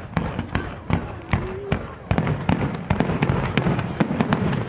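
Aerial fireworks bursting in a dense, irregular string of sharp bangs and crackles, one after another, over a continuous low rumble.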